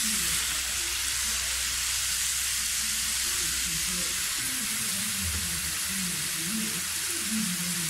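Sliced bitter melon sizzling in hot cooking oil in a frying pan as handfuls are dropped in, a steady frying hiss.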